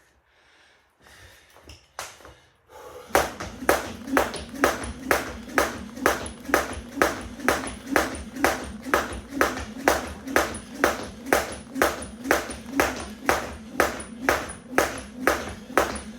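A weighted 1 lb jump rope slapping the floor on every turn, starting about three seconds in and keeping an even beat of roughly two and a half strikes a second, each slap with a short ring.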